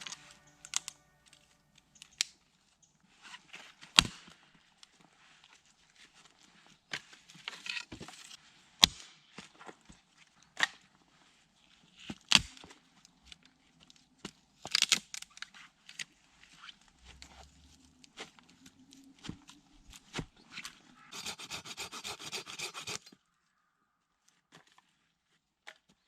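Close handling sounds: scattered sharp clicks and knocks with soft rustling and scraping between them, then about two seconds of dense crinkling or crackling near the end.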